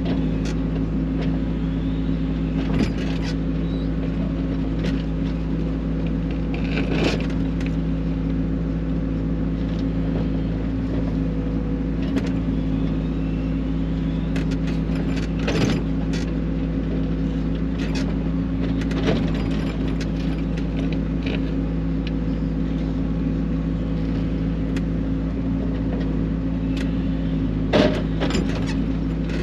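Mini excavator's diesel engine running steadily, with scattered sharp knocks and scrapes from the bucket digging around a buried rock; the loudest knock comes near the end.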